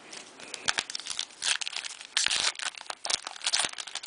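Trading card pack wrapper being torn open and crinkled by hand, in a run of irregular crackling bursts that grows densest in the middle.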